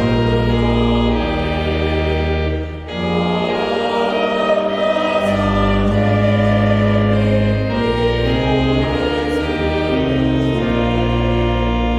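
A hymn sung by choir and congregation with organ accompaniment: held chords over low bass notes, changing every second or two, with a short break between phrases just under three seconds in.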